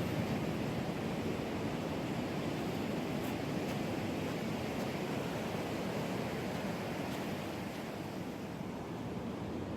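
Ocean surf washing in, a steady rushing noise that eases slightly near the end.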